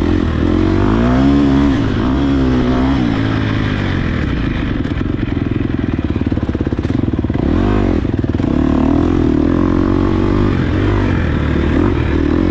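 Dirt bike engine on the throttle on an off-road course, revving up and down several times with a steadier stretch of running in the middle.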